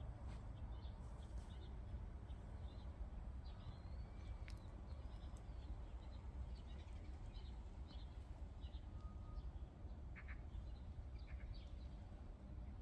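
Small birds chirping and calling faintly, with many short high chirps and a few sweeping notes scattered through, over a steady low rumble.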